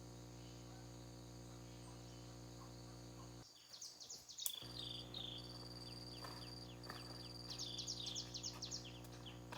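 Forest ambience: insects and birds chirping over a steady low hum. About 3.5 s in the sound briefly drops out, then rapid, repeated high chirps start.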